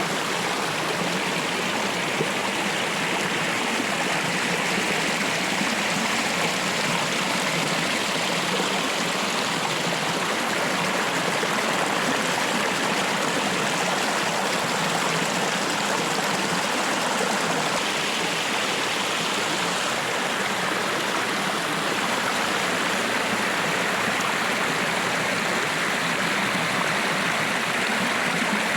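Water running steadily down a built garden stream and small waterfall: an even rush and splash that does not change.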